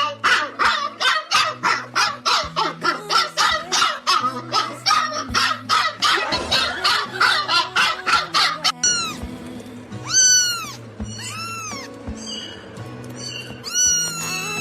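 Background music with a steady bass line and a fast, even rhythmic patter over the first half. About nine seconds in, a cat meows several times: short calls that rise and then fall.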